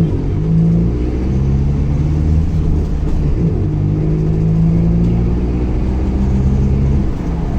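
Exhaust and engine of a Mercedes-Benz LO 916 bus with an OM924LA four-cylinder turbodiesel, running steadily under way, its engine note shifting up and down in pitch several times.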